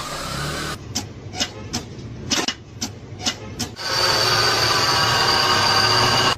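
Car fault noises in quick succession. First a run of irregular sharp clicks or knocks, then from about four seconds in a steady whine with a high tone.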